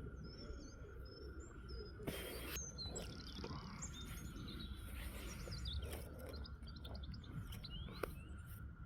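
Wild birds chirping and singing in short, repeated calls, with a brief burst of noise about two seconds in and a sharp click near the end.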